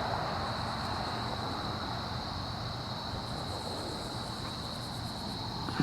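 Distant diesel locomotives of an approaching freight train, a low steady rumble, under a steady chorus of crickets.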